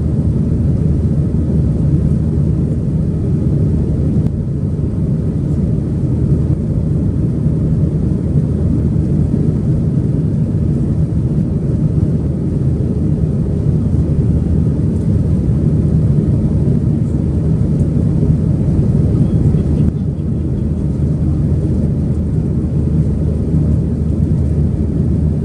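Steady low roar of an Airbus A320-200's engines and airflow heard from inside the passenger cabin, as in the climb after takeoff.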